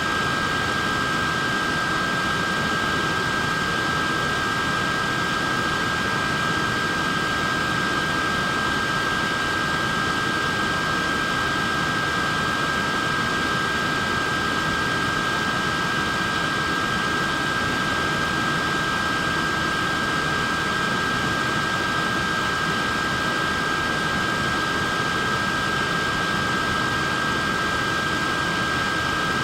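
Neck fan running steadily: an even rush of air with a high, steady whine from its small motors.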